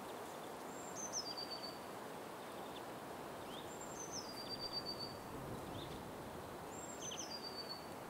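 A bird giving a high whistled call three times, about three seconds apart; each call steps down in pitch in two or three stages and ends on a held lower note. Steady background hiss throughout.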